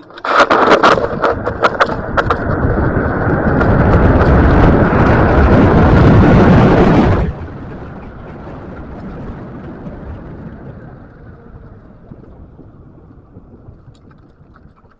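Loud wind and road noise on the microphone of a moving scooter, with sharp knocks and rattles in the first two seconds. It drops off abruptly about seven seconds in, then fades to a lower rush.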